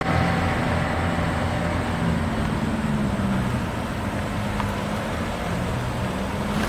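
A motor vehicle running steadily, with a low engine hum whose pitch shifts a little and an even rush of road noise.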